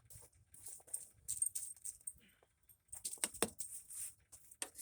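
Scattered light clicks and knocks, with a short cluster of them a little past halfway.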